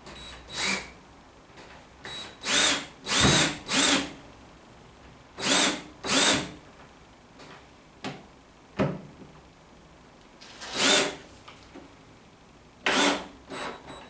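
Power drill with a crosshead bit driving 40mm wood screws into arris rail timber, in a series of short bursts under a second each, the motor pitch rising and falling within each burst.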